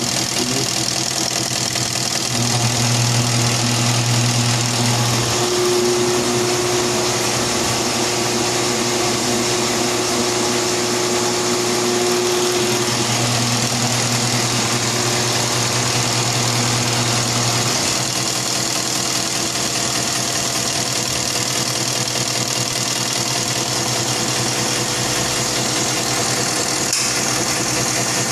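Isuzu 4BC2 four-cylinder diesel engine running steadily; its steady hum changes several times and drops away about 18 seconds in.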